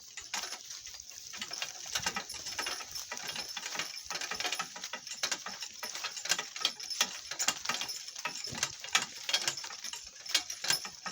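Donkey cart rattling and clattering over rough, bumpy ground: a steady run of irregular knocks and clinks.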